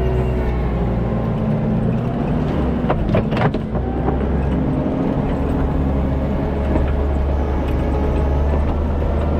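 Kubota SVL97-2 compact track loader's diesel engine running steadily under work, its pitch shifting a little as it goes. About three seconds in, a brief clatter of knocks.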